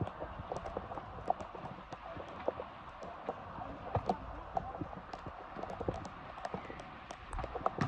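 Irregular taps and knocks of players running and kicking a football on a wet pitch, with a few heavier thuds, over a steady hiss.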